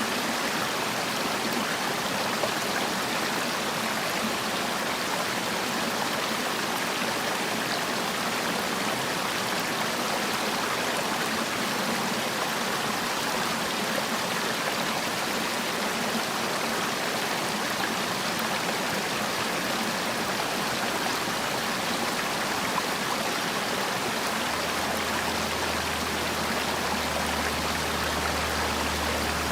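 Mountain valley stream rushing and splashing steadily over rocks. A low steady hum comes in near the end.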